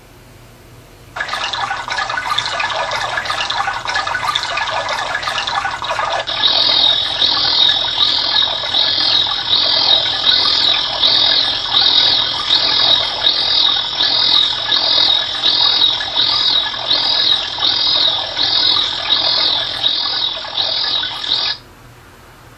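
A natural-sound recording played as an auditory stimulus for an auditory steady-state response test. A steady noisy sound starts about a second in. About six seconds in it is joined by a high chirping call that repeats about one and a half times a second, and the whole sound cuts off sharply near the end.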